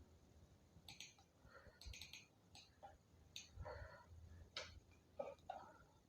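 Faint computer keyboard typing: a dozen or so irregular keystroke clicks over low room tone.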